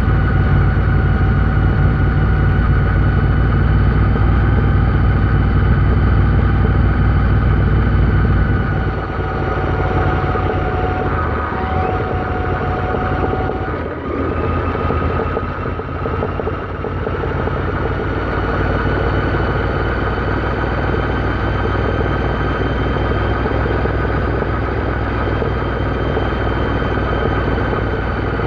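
Royal Enfield Interceptor 650's parallel-twin engine running under way. About nine seconds in, the deep engine note eases off and the pitch dips briefly before it settles into a steady, lighter drone.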